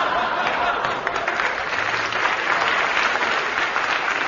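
Studio audience applauding, a dense steady clatter of many hands clapping.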